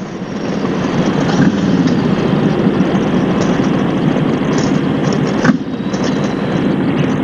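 Harley-Davidson Road Glide's V-twin engine running under way, mixed with wind and road noise on a helmet-mounted microphone; it swells as the bike picks up speed in the first second or so, then holds steady, with a brief dip about five and a half seconds in.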